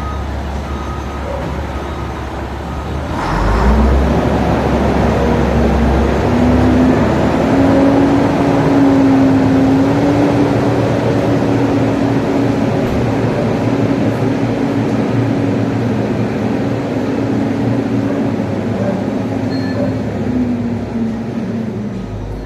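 A motor vehicle's engine running close by. It picks up about three seconds in and holds a steady drone before easing off near the end, with a couple of faint short beeps late on.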